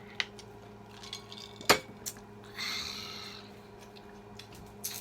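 A few sharp clinks of cutlery against dishes, the loudest about a second and a half in, with a brief rustling scrape near the middle.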